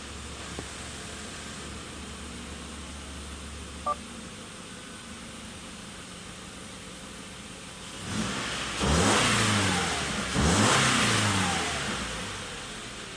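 Subaru Forester's flat-four boxer engine idling steadily, then revved twice in quick succession, the pitch rising and falling each time. A short electronic beep sounds about four seconds in.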